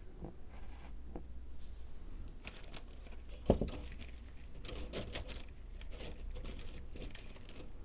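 Hands handling small materials on a miniature Zen-garden diorama: light rustling and crinkling, with one sharp knock about three and a half seconds in.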